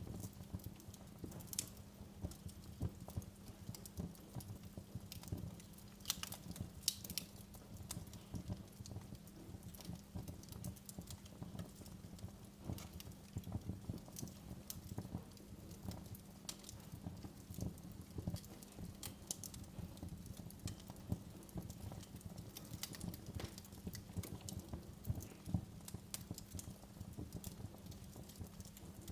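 Wood fire crackling and popping: irregular sharp snaps over a steady low rumble of the flames.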